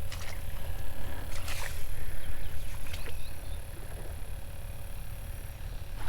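Low, fluctuating rumble of wind buffeting the microphone outdoors, with a few faint clicks.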